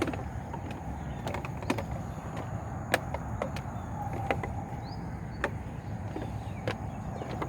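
Scattered raindrops landing in irregular sharp ticks, at the start of a rain shower, over a steady low rumble.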